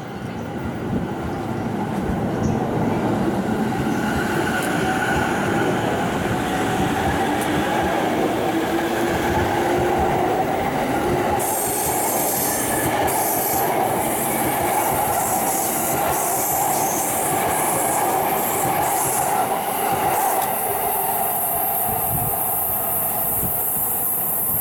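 A Chuo-Sobu Line local electric train pulling away from the platform. Its motors give a rising whine as it gathers speed, over the rumble of the carriages rolling past. A high-pitched wheel squeal joins in about halfway through and fades a few seconds before the end.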